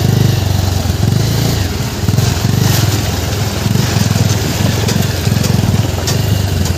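Motorcycle engine running at low speed, its note swelling and dipping about once a second.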